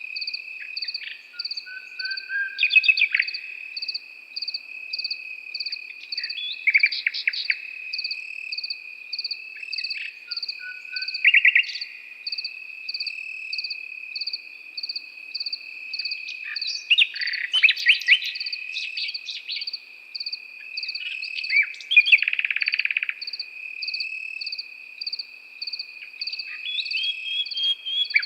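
A nightingale singing separate phrases a few seconds apart, some with rapid trills, over steady cricket chirping. One insect trills continuously and another pulses about twice a second.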